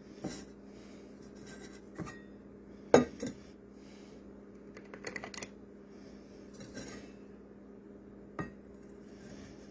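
Scattered knocks and clicks of hard objects being handled and set down on a workbench, the loudest about three seconds in and a quick rattle of taps around five seconds, over a steady low hum.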